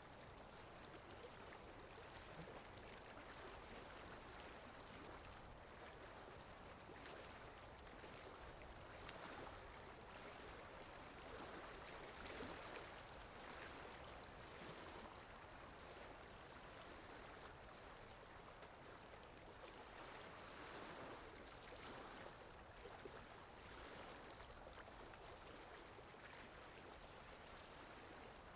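Steady soft rainfall, an even hiss of falling rain that swells slightly now and then.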